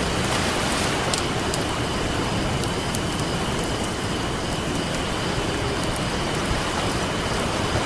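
Ocean waves breaking and washing in a steady rush, with a campfire crackling over it in scattered small sharp pops.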